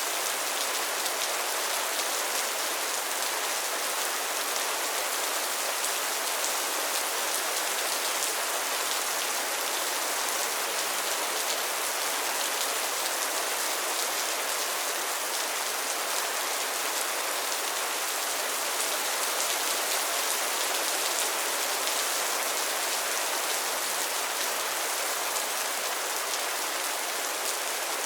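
Steady rain falling on a pond and its lily pads, a dense, even patter of drops with no letup.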